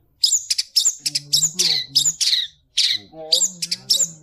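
Long-tailed shrike (cendet) singing hard: a rapid run of sharp, harsh high notes with lower warbled phrases between them, part of its mimicry of the trucuk (yellow-vented bulbul).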